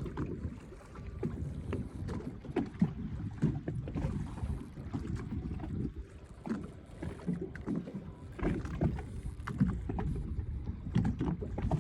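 Water slapping against a small fishing boat's hull, with a low rumble and irregular knocks throughout.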